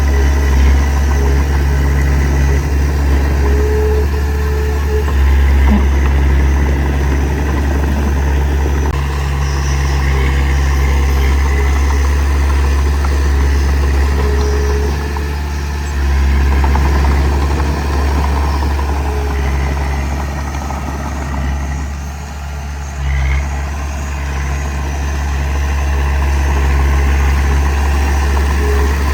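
Heavy diesel engine running steadily with a deep rumble, easing off briefly about three-quarters of the way through before picking up again.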